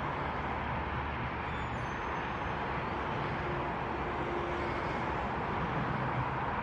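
Steady, even noise of jet aircraft engines running at a distance, with a faint low hum underneath.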